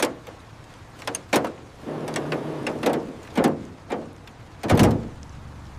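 A run of about seven sharp knocks and clunks at uneven intervals, the loudest near the end, with a rustling noise between them in the middle.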